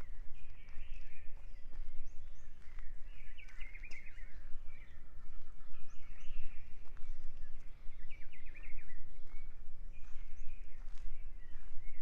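Songbirds singing short warbling phrases, one every couple of seconds, over a steady low rumble and a few faint clicks.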